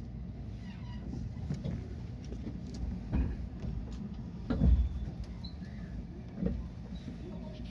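Steady low rumble inside the cabin of a stopped JR West 223 series electric train. Dull thumps come about three seconds in, more strongly at about four and a half seconds, and again at about six and a half seconds.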